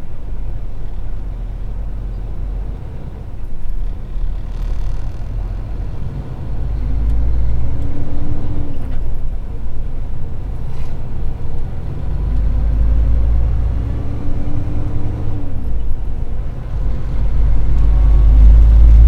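Kenworth T660 semi truck's Paccar MX13 diesel engine pulling away under a load of cast iron pipe, with a deep steady rumble. The engine pitch climbs twice, about seven and twelve seconds in, as the truck accelerates through the gears.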